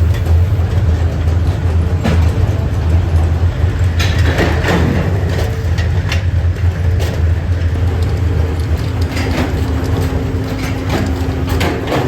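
Heavy factory machinery running with a steady low hum, with scattered sharp metal knocks and clanks throughout.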